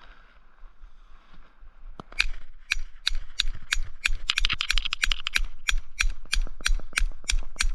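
Ratchet wrench clicking in quick, even strokes, about three or four clicks a second, starting about two seconds in, as the nut on the bolt of a homemade bearing press is turned.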